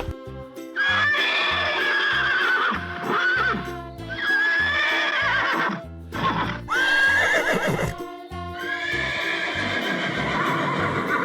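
Horse whinnying several times, each a long wavering high call, over background music.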